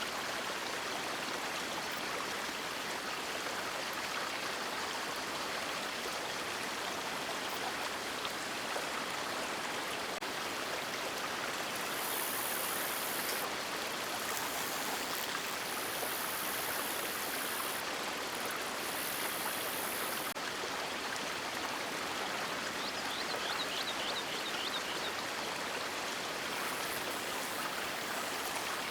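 River water flowing with a steady rushing sound, with a brief run of faint high chirps about two-thirds of the way through.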